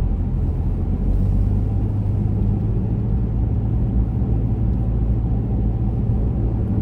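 Car driving at a steady speed, heard from inside: a steady low rumble of engine and road noise with no change in pace.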